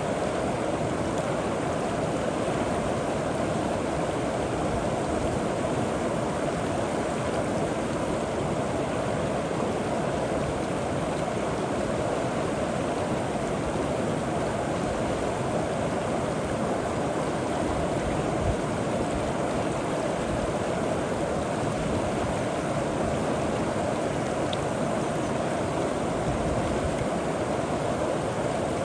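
River water rushing and gurgling over rocks: a steady, even rushing.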